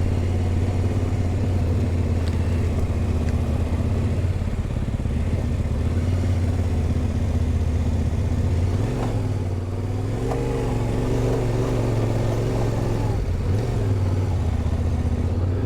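Yamaha Ténéré 700 parallel-twin engine running at low speed. Its note dips and wavers for a few seconds around the middle, with throttle changes.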